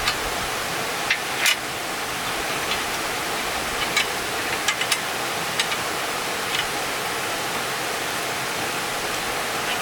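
Steady rushing of flowing water, with a few short faint clicks and knocks scattered through it.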